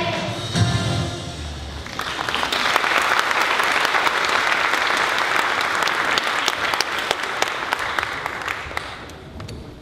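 Audience applauding. The last notes of a sung number fade in the first second or two, then dense clapping swells and dies away near the end.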